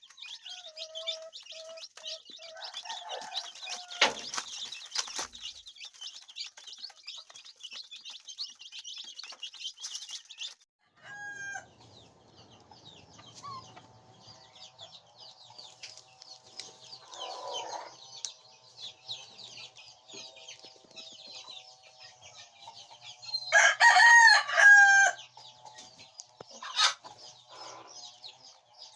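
Chickens clucking and calling over a busy layer of high chirping, with one loud crow from a rooster a few seconds before the end.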